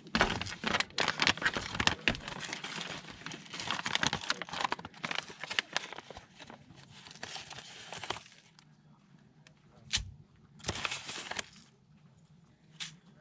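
A run of crinkling, crackling handling noises with many sharp clicks, dense for several seconds, then a few short bursts.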